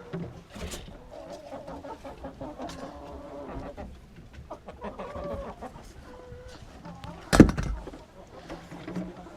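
Domestic hens clucking in the coop, with wavering calls through most of the stretch. A single sharp knock about seven seconds in is the loudest sound.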